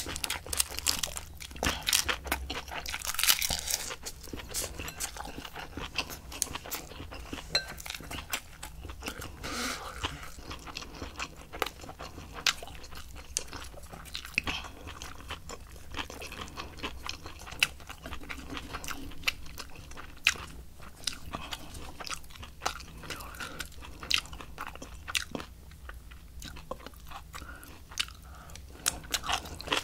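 A person chewing napa cabbage kimchi with rice and seasoned laver, with many crisp, irregular crunches of the cabbage.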